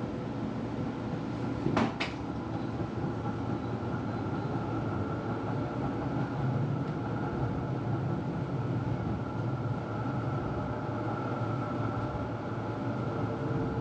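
Inside a moving electric tram: a steady rumble of the running tram with a faint, even whine, and a single sharp knock about two seconds in.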